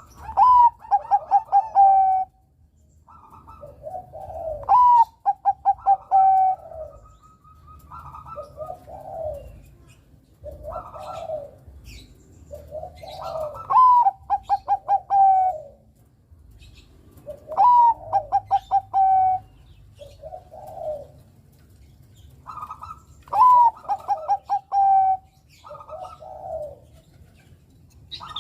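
Zebra dove (perkutut) of the Bangkok type cooing. The loud phrases come about every four to five seconds: each is a rising note followed by a quick run of short stuttering notes that step down in pitch, with softer, lower coos in between.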